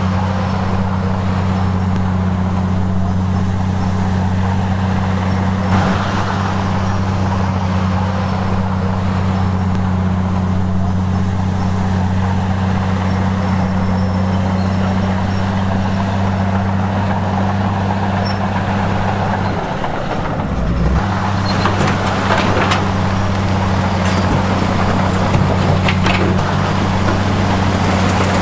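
Heavy construction machine's diesel engine running steadily with a deep, even hum. About twenty seconds in, the hum breaks off briefly and then resumes, with some metallic clatter over it near the end.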